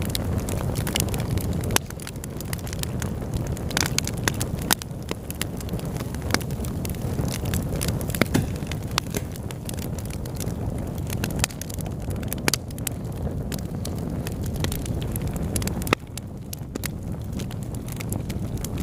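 Fire burning in a fireplace: a steady low rush of flames with frequent sharp crackles and pops.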